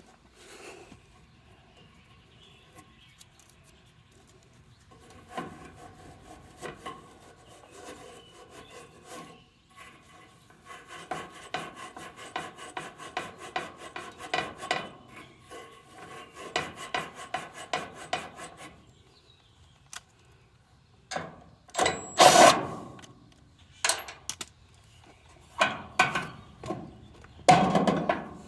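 Hand tool work on metal: slow rubbing strokes, then several seconds of fast, repeated rasping strokes, followed by a few louder knocks and clunks near the end.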